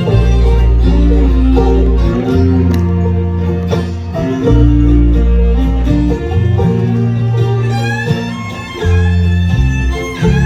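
Live bluegrass band playing an instrumental break in a slow waltz, acoustic string instruments with a steady bass line under the melody.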